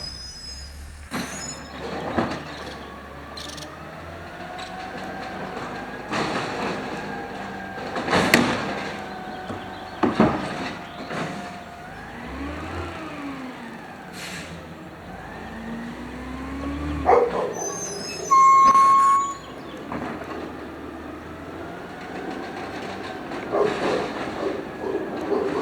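2012 automated side-loader garbage truck working a recycling route: its hydraulics whine up and down as the arm cycles, with several loud bangs of carts slammed against the hopper. A single loud beep lasts about a second about three-quarters of the way through.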